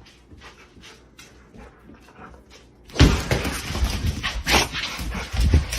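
A dog's sounds: faint scattered ticks and rustling, then a sudden loud commotion about three seconds in that carries on to the end.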